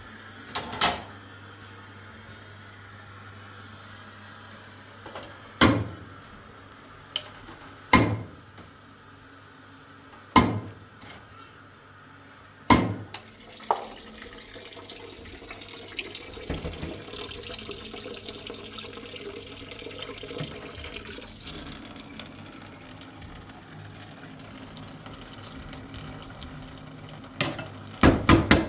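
Water running into a sink for several seconds, with sharp knocks and clatter of kitchenware: five separate knocks spaced a few seconds apart before the water starts, and a quick cluster near the end.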